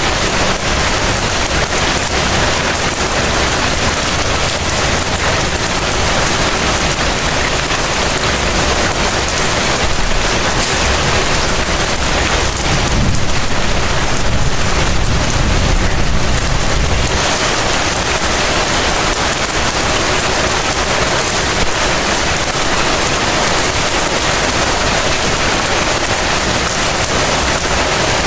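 Heavy rain falling steadily. About halfway through, a low rumble swells for roughly four seconds, then fades back under the rain.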